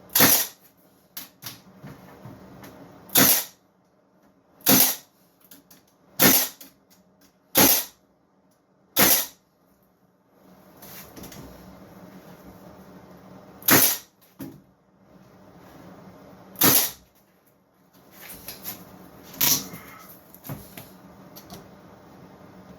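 Cordless 18-gauge brad nailer (Milwaukee M18 FUEL) firing brads into a wooden carcass, about nine sharp shots one to three seconds apart with a longer pause near the middle.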